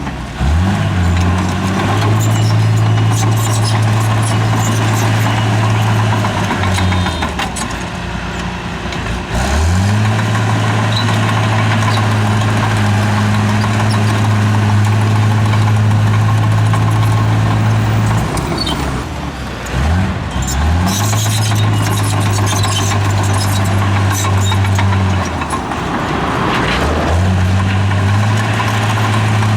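Heavy diesel engine of a bulldozer working. It runs at high revs, and several times it drops down and then picks back up, over scattered clanking.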